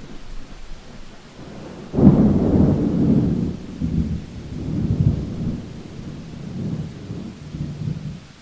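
A thunderclap in a rainstorm. It cracks sharply about two seconds in, then rolls on as a low rumble that swells and fades in several waves before dying away near the end, over steady rain.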